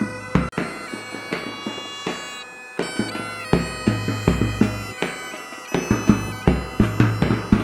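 Bagpipes playing a tune over a steady drone, with drumbeats. The drums drop out for about two seconds near the start, then come back.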